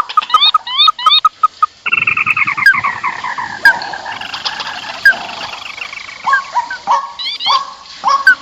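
A bird-lure recording of rice-field birds calling noisily: short rising calls repeated in quick series, overlapping into a dense chorus about two seconds in, then thinning to spaced single calls near the end.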